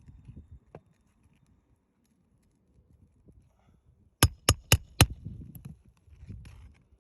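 Four quick hammer blows about four seconds in, roughly four a second, on roof shingles being nailed or pried during a shingle repair, with soft scuffing and shuffling on the roof around them.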